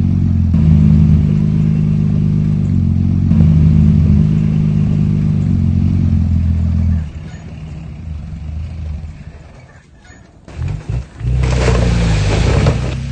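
Heavy earthmoving machine's diesel engine running steadily, then dropping away about seven seconds in. Near the end the engine picks up again under a loud rush of rattling noise.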